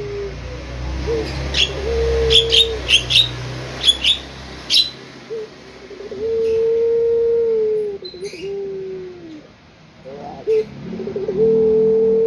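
Puter pelung turtle dove cooing: three long drawn-out coos held on one pitch, each opening with a short warble, the middle one the longest at about two seconds. Sharp chirps from a smaller bird come in the first few seconds.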